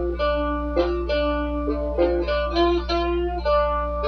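A four-string instrument played with a slide, picking a simple back-and-forth riff between two strings around the 3rd fret. Notes are slid into from just below the fret, a new note about every half second. A steady low hum runs underneath.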